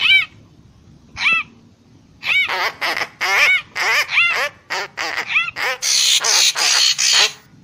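Murai papua bird calling: quick groups of short, arched, harsh notes, repeated with brief pauses between, and a rougher, noisier stretch near the end.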